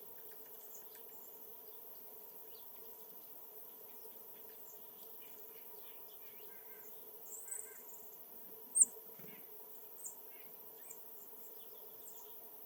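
Small birds chirping: scattered faint calls, then a few short high chirps from about seven seconds in, the loudest near nine seconds, over a faint steady hum.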